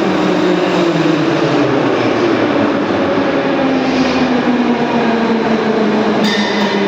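Metro train running, its traction motors whining in several tones that slowly fall in pitch as the train slows. A short hiss comes near the end.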